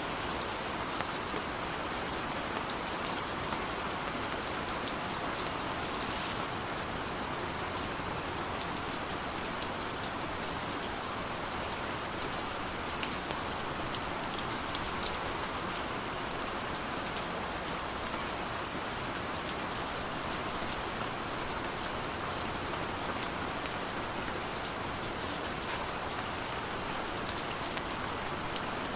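Heavy rain falling steadily, a continuous hiss with many small drop ticks throughout.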